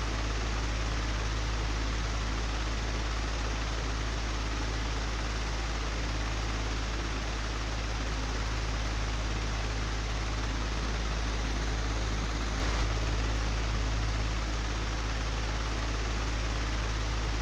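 Old, broken electric fan running steadily: a constant airy whoosh over a deep motor hum, with one brief knock about two-thirds of the way through.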